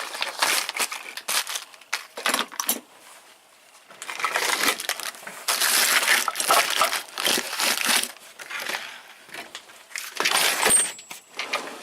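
Loose hardware being rummaged through in a tool box drawer: small metal parts clinking and rattling together, with scraping and rustling in bursts and a short lull about three seconds in. A brief high metallic ring near the end.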